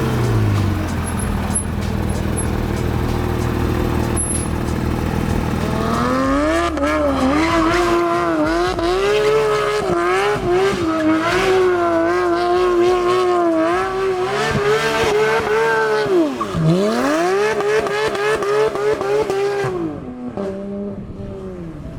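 A sports car driven hard. It rumbles low at first, then about six seconds in it breaks into a loud, wavering high-pitched howl. The howl holds for about fourteen seconds, with one quick drop and rise in pitch, and stops shortly before the end.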